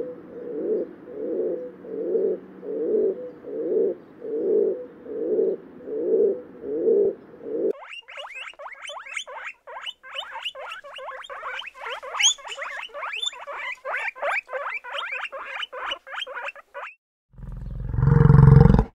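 Rock pigeon cooing, about nine low coos roughly one every 0.8 s, then a cut to guinea pigs squeaking: a fast run of short high squeaks, about four a second, lasting about nine seconds. Near the end a loud low bellow from the bison.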